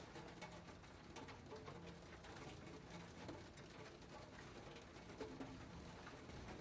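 Faint rain pattering, with many single drops ticking, and low, short cooing calls of a dove coming and going.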